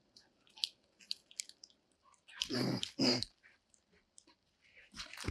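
A dog vocalising twice in quick succession about two and a half seconds in, with scattered small clicks around it.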